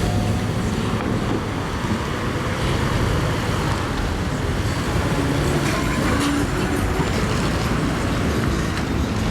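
Steady rumble of car engines and street traffic.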